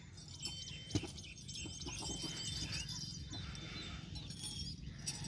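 Small birds chirping in quick, high twitters over a steady low rumble, with a single sharp knock about a second in.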